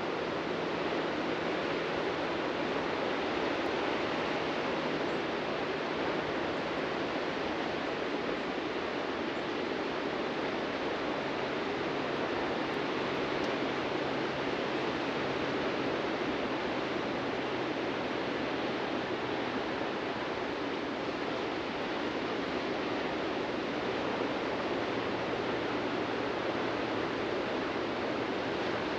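Ocean surf washing onto a beach as a steady, unbroken rush of waves, with no single crash standing out.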